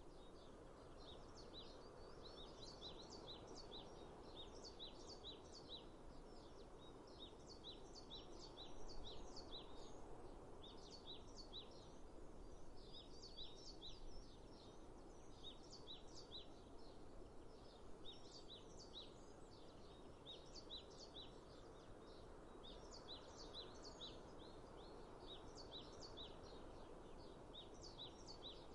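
Faint chorus of small songbirds chirping continuously in quick, short high notes, over a steady soft rushing background noise.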